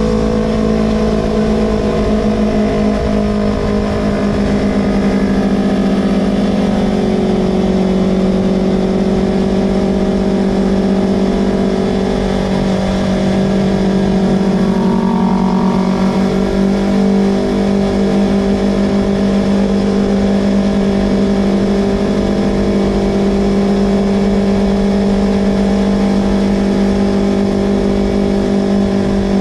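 Yamaha R25 parallel-twin engine running through a Villan Pro 2 aftermarket exhaust, holding a steady pitch that dips and recovers a couple of times.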